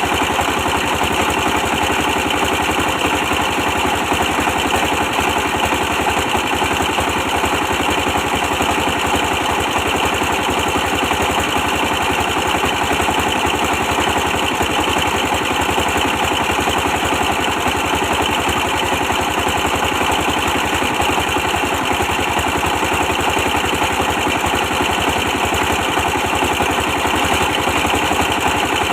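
24 hp diesel engine running steadily at a constant speed, a fast even chugging with no change in pace.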